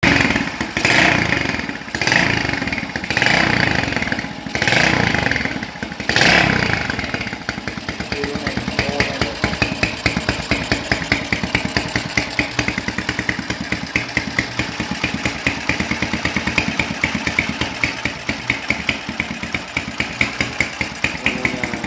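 Motorcycle fitted with an MC-1 kleper exhaust, revved in five quick blips over the first six seconds, then settling into idle with a fast, even popping from the exhaust.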